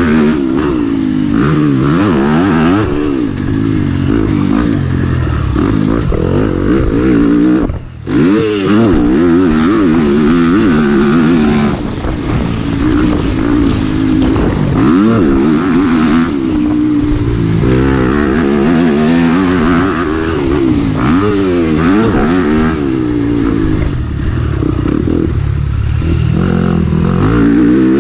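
Yamaha YZ250F four-stroke motocross bike ridden hard, its engine revving up and dropping back over and over as the rider goes through the gears and on and off the throttle. The sound dips sharply for a moment about eight seconds in.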